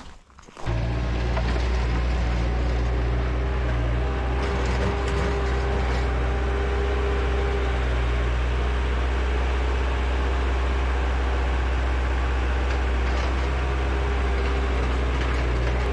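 An engine running steadily at constant speed, starting abruptly about a second in.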